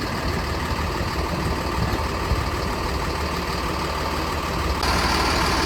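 Bus engine idling steadily with a low, even rumble, keeping the air-conditioning compressor turning while refrigerant is charged. A little before the end the sound shifts and more hiss comes in on top.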